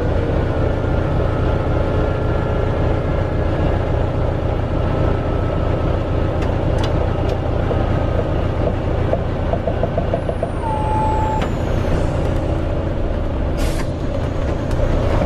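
Scania 142H truck's V8 diesel engine running steadily with a deep rumble, with a few light clicks and a brief whistle-like tone about two-thirds of the way through.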